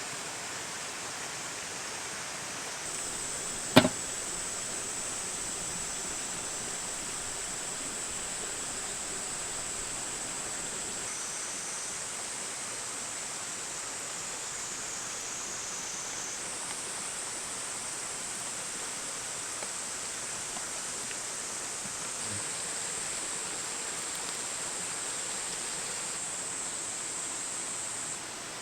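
Steady outdoor hiss with a faint high trilling that sounds like insects. A single sharp click about four seconds in.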